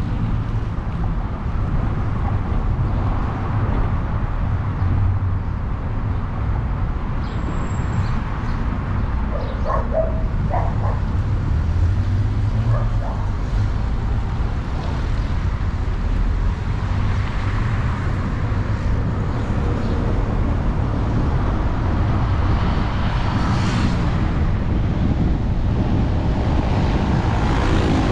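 Vehicle on the move, a steady rumble of road and engine noise. A few short pitched sounds stand out briefly about ten seconds in.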